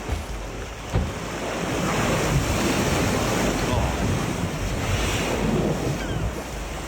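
Wind buffeting the microphone over the rush of ocean waves, louder in the middle, with a single knock about a second in.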